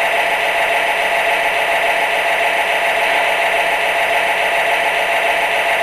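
MTH Premier U.S. Army Genset O-gauge model diesel locomotive running: a steady drone of its recorded diesel engine sound from the onboard speaker, mixed with the whir of the train's wheels rolling on the track.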